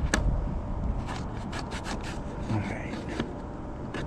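Plastic clicks, taps and scraping as the door of an old plastic hooded dryer vent damper is worked onto its hood, its two pins pushed into their holes; a dozen or so short sharp clicks, uneven in spacing.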